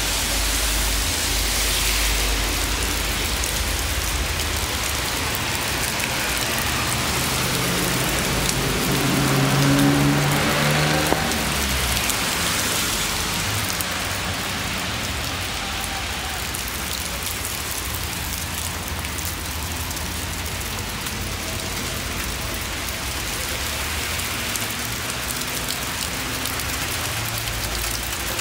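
Steady rain falling and splashing on pavement. A pitched engine hum from a passing vehicle swells and fades about a third of the way in.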